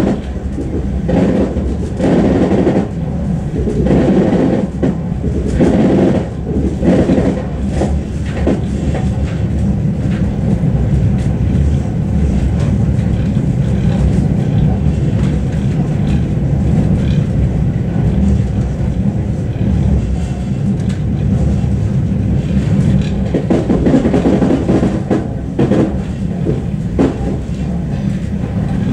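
Suburban passenger train running at speed, heard from inside the carriage: a steady low rumble of wheels on the rails, with stretches of clatter over the track in the first several seconds and again near the end.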